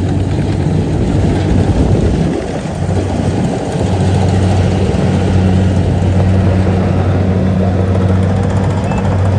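Kubota DC70 rice combine harvester's diesel engine and machinery running loudly and steadily, with a low hum that briefly weakens about two to three seconds in before steadying again.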